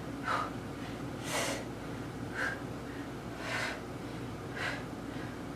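A woman's sharp, hard exhalations from exertion, about one a second in an even rhythm, in time with exercise repetitions.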